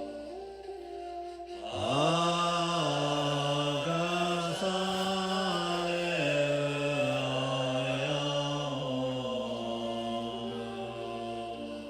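A man's voice chanting a mantra in long held notes that step up and down in pitch. The voice comes in with an upward slide about two seconds in and fades near the end, with a softer held note going on beneath it.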